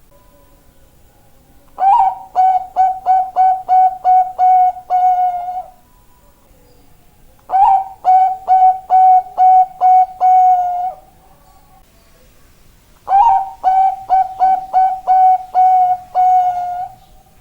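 Bangkok-type zebra dove (perkutut) singing: three bouts of cooing about five and a half seconds apart, each a rapid run of short coos ending in a longer held coo.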